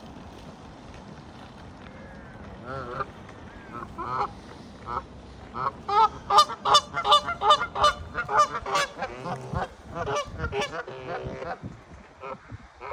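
Geese honking: a run of short calls begins a couple of seconds in, quickens into a rapid, loud string of honks in the middle, then thins out near the end.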